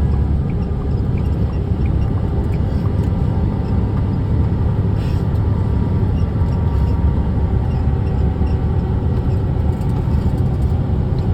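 A truck driving along, heard from inside the cab: a steady low rumble of engine and road noise.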